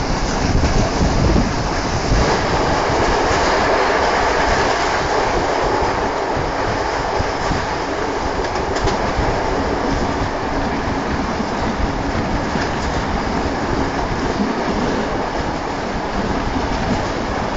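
Passenger train carriages running along the track, heard from an open carriage window: a steady rumble of wheels on rails with a few clicks at the rail joints.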